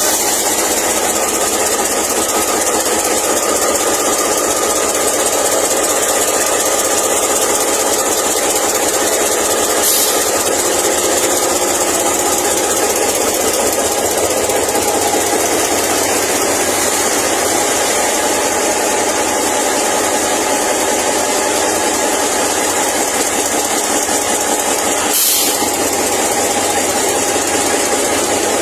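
Diesel locomotive engine (locomotive 7934) running steadily at idle, a constant mechanical hum with hiss, with a brief click about ten seconds in and another near the end.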